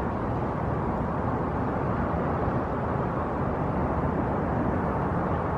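Steady outdoor background rumble of distant road traffic, even and unbroken, with no bird calls.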